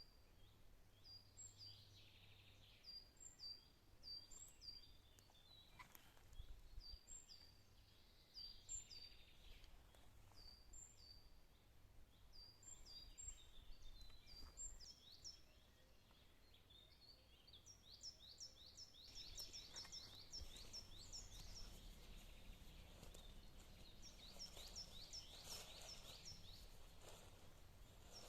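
Faint birdsong: small songbirds giving short high chirps in a loose series, turning into quicker runs of quick falling notes in the last third.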